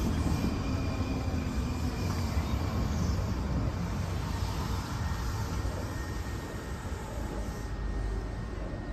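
Low, steady rumble of a train out of sight, easing off slightly, with a faint high steady tone coming in about six seconds in.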